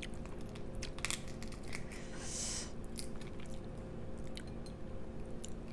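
Close-miked chewing of crawfish in sauce: scattered wet clicks and crunches of shell and meat, with a brief hiss about two seconds in. A steady low hum sits underneath.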